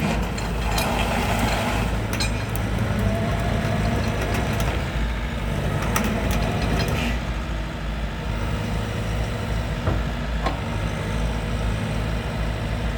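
Develon DX85R-7 excavator's diesel engine running steadily, with a few sharp clanks about two, six and ten seconds in.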